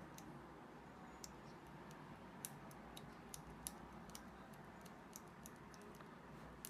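Faint, irregular small clicks of a screwdriver tip scraping the blackened copper contacts of a washing machine's door switch, cleaning away the dirt whose poor contact stops the machine from spinning.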